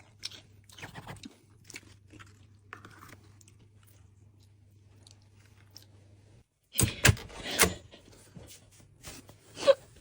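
Faint crunching and chewing of a crispy pastry over a steady low hum. Later, the hum cuts off and a short burst of loud knocks and rustling follows, with another knock near the end.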